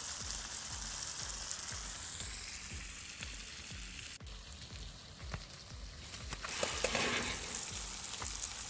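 Ground meat and vegetables sizzling in a cast iron skillet over a campfire, a steady hissing fry. The sizzle drops off for a couple of seconds about four seconds in, then comes back full.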